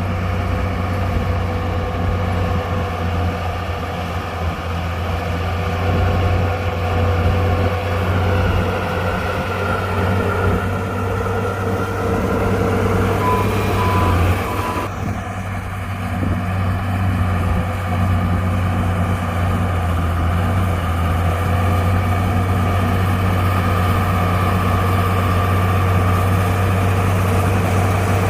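Heavy diesel engine of a crawler bulldozer running steadily under load. About halfway through there is a short run of reversing beeps.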